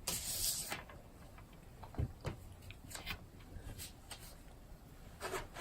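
A few faint, separate clicks and taps of small objects being handled on a table, with a short rustle at the start.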